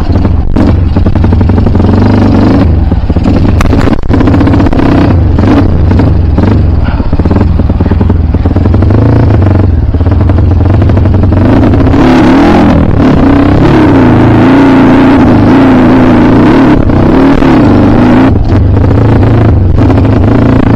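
Kawasaki KLX trail motorcycle's engine running hard, its pitch rising and falling as the throttle is worked.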